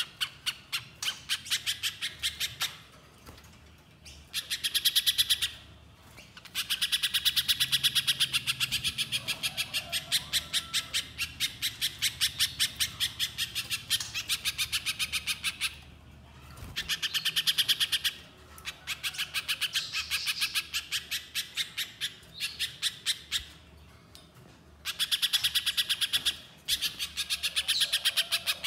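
A spiderhunter (pijantung pisang) calling: rapid series of sharp, high notes, about five a second, in long bouts broken by short pauses.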